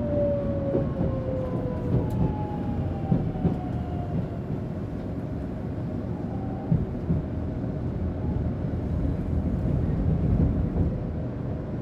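Sanyo Shinkansen train running, heard from inside the passenger car: a steady low rumble with a thin whine that falls slowly in pitch over the first few seconds, and a few light clicks.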